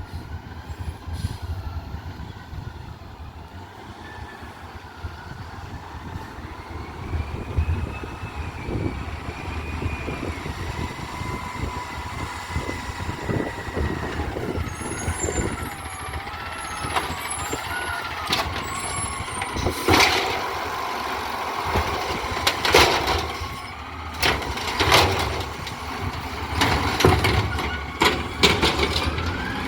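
Garbage truck running, with a whine that rises and falls over a steady low rumble. Several short, sharp bursts of sound come in the second half.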